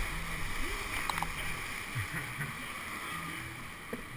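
Rushing whitewater running steadily around a kayak, with a few light knocks about a second in and near the end.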